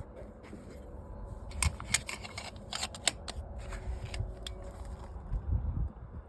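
A quick run of about eight sharp clicks and knocks, bunched into about a second and a half starting a little over a second and a half in, over a steady low rumble.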